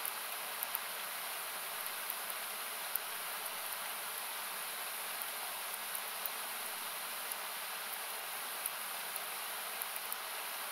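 Steady rushing of a river, equalised so that it sounds like hiss, with a wood campfire crackling in small, irregular pops over it.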